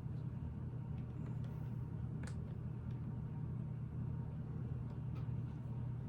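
A steady low background hum, with a few faint, light clicks of plastic Lego pieces being handled and pressed into place.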